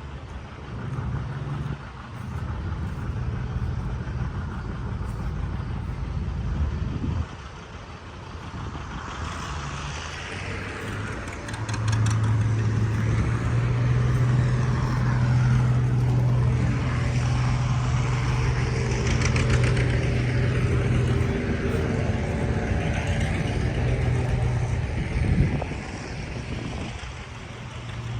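A heavy engine running steadily with a low, even hum, growing louder from about twelve seconds in and easing off near the end.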